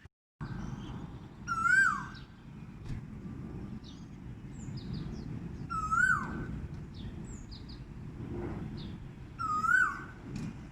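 A bird calls three times, about four seconds apart, each call a loud whistle that rises then drops. Short high chirps from other birds come in between, over a steady low background noise.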